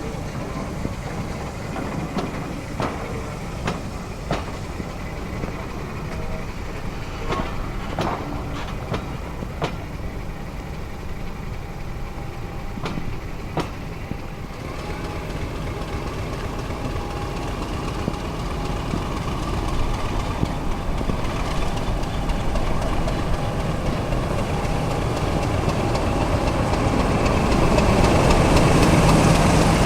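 Heritage railway train running: a steady low rumble with scattered clicks in the first half, growing louder through the second half.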